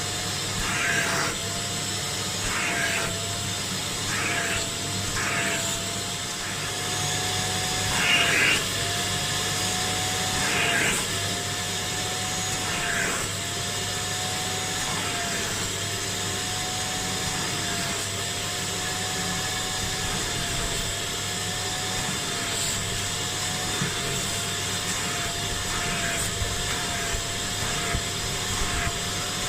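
Kärcher Puzzi 10/1 spray extractor's suction motor running steadily with a whine that wavers slightly in pitch. Brief rushes of hiss come every second or two during the first half.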